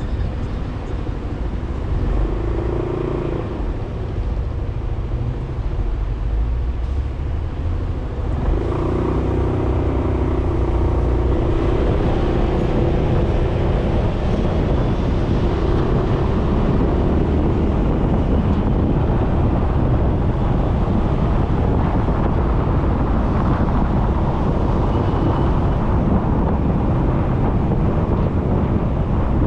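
Riding on a Suzuki Burgman 400 scooter: its single-cylinder engine running under way, with a steady hum over road and air rush, getting louder about eight seconds in.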